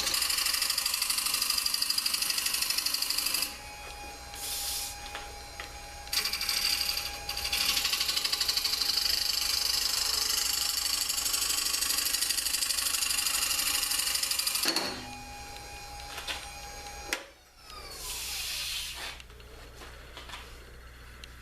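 Jet mini 1221 wood lathe spinning a dry hard maple bowl blank while a tool or abrasive is held against the outside, a loud hissing that pulses rapidly, in two long stretches with a quieter break between them. About 17 seconds in the lathe's steady motor tone stops and the machine winds down, with some lighter contact afterwards.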